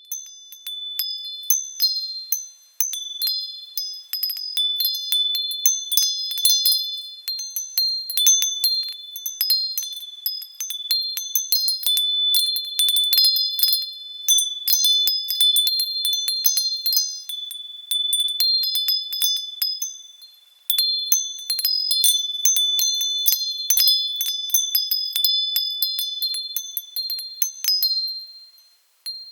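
Wind chimes tinkling in the wind: small high-pitched metal tones struck irregularly and overlapping, each ringing on and fading, with brief lulls when the wind drops.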